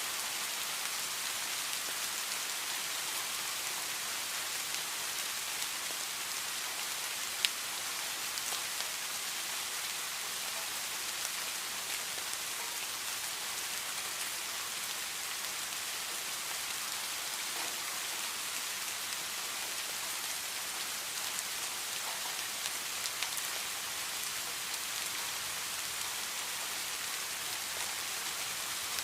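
Heavy rain falling steadily, an even hiss of drops on surfaces. A single sharp tap stands out about seven seconds in, and a few fainter taps come near the end.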